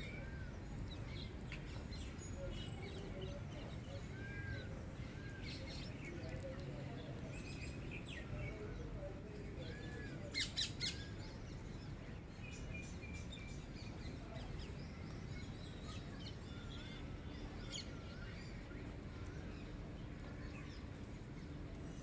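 Birds chirping and calling in short, scattered notes over a steady low background noise. About halfway through come three loud, sharp sounds in quick succession.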